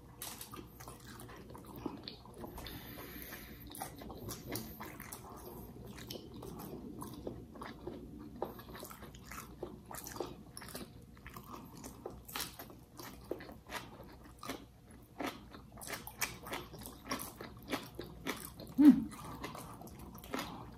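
Close-up eating sounds of two people chewing baked fish, rice and raw bok choy with their hands: wet chewing, lip smacks and the crunch of bok choy leaves, many short irregular clicks. A short hum near the end.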